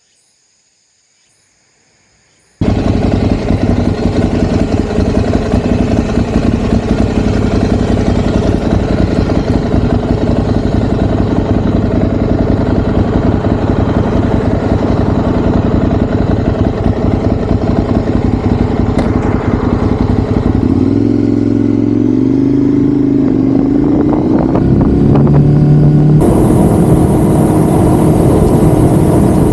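Ducati Monster's L-twin engine running loudly on the move, with road and wind noise. It cuts in suddenly after a brief silence, and about twenty seconds in its note dips and wavers as the revs change.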